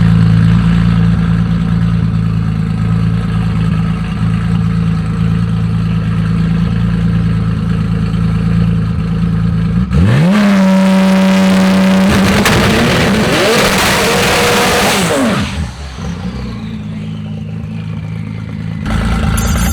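Car engine running steadily at low revs, then revving hard about ten seconds in and accelerating away through several gear changes, with the pitch climbing and dropping repeatedly. It fades out at around sixteen seconds.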